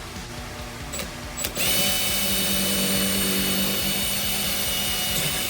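Power drill running steadily for about four seconds, drilling a hole in a metal snare drum shell for a new snare throw-off. It starts about one and a half seconds in, after a couple of light clicks.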